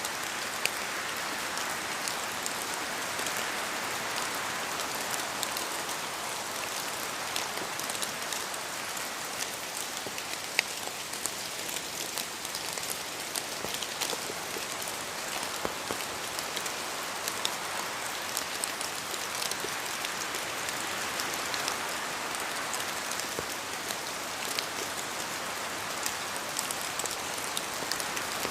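Steady rain falling in a forest, with many individual drops ticking sharply close by over the even patter. The rain swells slightly in intensity at times.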